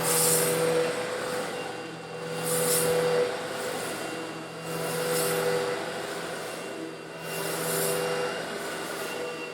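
Eureka vacuum cleaner motor running steadily while sucking up coarse stone granules. About every two and a half seconds, four times, the sound swells with a burst of high hiss as the grit is pulled in.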